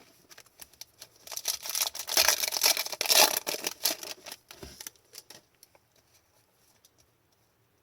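Foil trading-card pack being torn open: a dense crinkling and tearing of the wrapper for about three and a half seconds, followed by a few light clicks.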